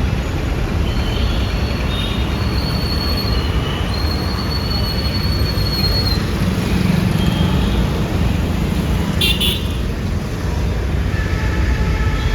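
Busy city road traffic: a steady rumble of vehicle engines, with several high horn toots in the first half and a brief sharp clatter about nine seconds in.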